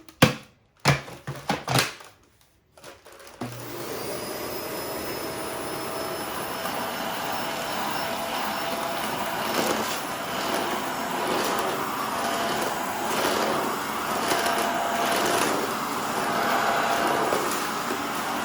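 A few clicks and knocks of handling, then a Shark vacuum cleaner switches on about three seconds in and runs steadily with a whine, with crackling as it picks up debris.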